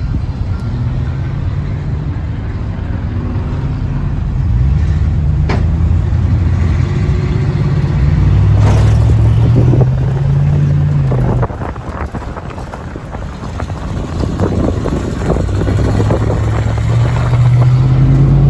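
Motor vehicle engine accelerating, its note climbing steadily, dropping off suddenly about eleven seconds in, then climbing again.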